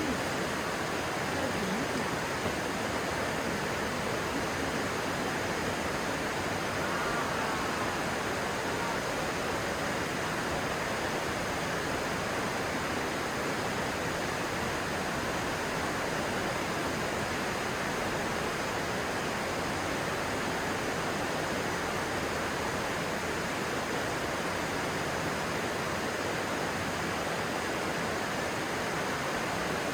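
Stream water rushing steadily: an even, unbroken rush of flowing water.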